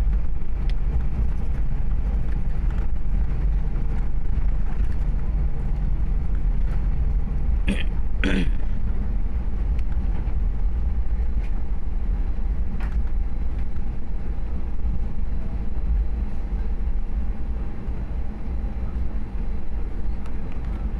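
Airliner cabin noise just after landing: the steady low rumble of the jet engines and airframe as the plane taxis. A brief sweeping sound cuts across it about eight seconds in.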